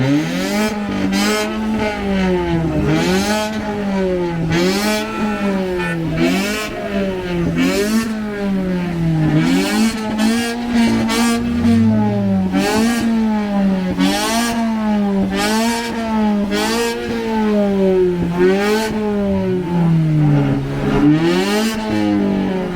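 Car engine revved again and again, its pitch climbing and dropping about every one to two seconds, with short sharp cracks between the revs.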